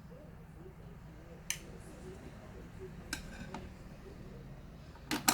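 Small hard clicks and taps of tools and plastic and metal laptop parts being handled during disassembly: a click about a second and a half in, another about three seconds in, and a louder cluster of clicks near the end.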